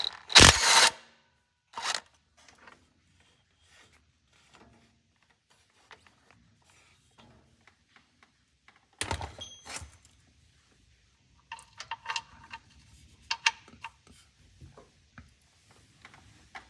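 Cordless impact driver with a 15 mm impact socket hammering in short bursts to break loose and back out a transmission bolt: a loud half-second burst near the start, a brief one after it, and a longer burst about nine seconds in, with light metallic clinks of tool and bolt between.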